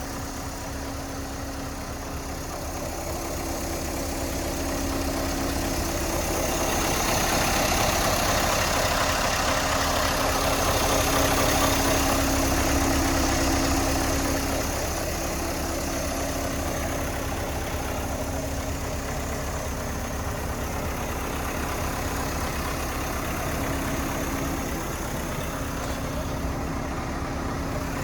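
Scania S 580's V8 diesel engine idling steadily, growing somewhat louder for several seconds in the middle before settling back.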